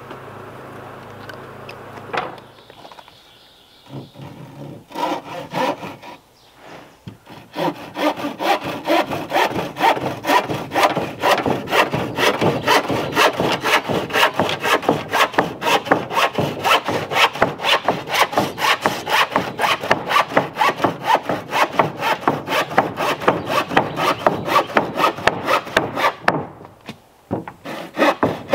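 Hand saw cutting through a wooden board in fast, even back-and-forth strokes, starting hesitantly and then settling into a steady rhythm. It pauses briefly near the end, then starts again.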